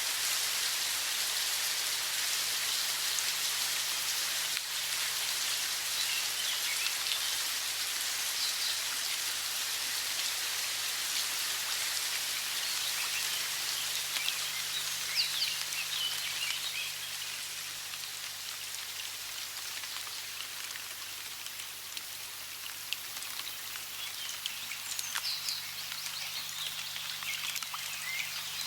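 Steady rush of running water, with bursts of bird chirping about a third of the way in, around the middle, and again near the end.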